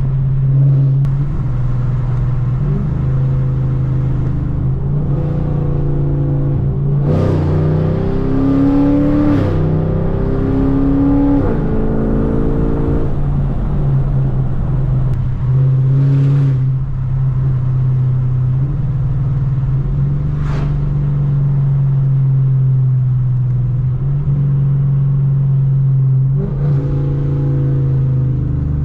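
Straight-piped Chevrolet Camaro V8 exhaust droning loudly under way, heard through the open windows. It climbs in pitch through several rising sweeps between about seven and thirteen seconds in, and swells briefly a few more times later on.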